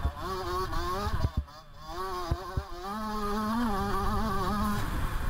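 Motocross bike engine at race pace, its revs rising and falling with the throttle. The revs and level drop briefly about a second and a half in, then pick up again. A few knocks are heard, with wind rumbling on the bike-mounted microphone.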